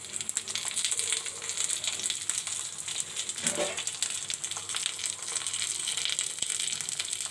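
A banana-leaf-wrapped fish parcel frying in a tablespoon of hot oil in a kadai: a steady sizzle, full of fine crackles.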